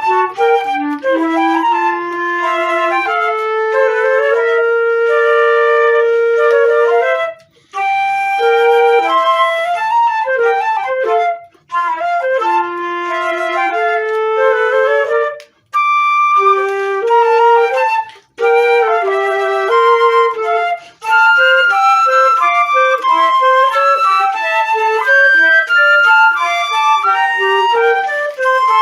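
Transverse flute playing a melody in phrases, with short breaks between them: sustained notes in the first half, quicker runs of notes later on.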